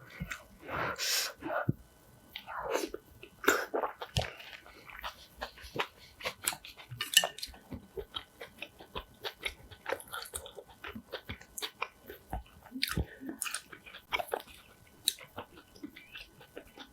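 Close-miked chewing of a mouthful of rice and biji stew: a run of many short, irregular mouth clicks and smacks, with a few longer squelching moments.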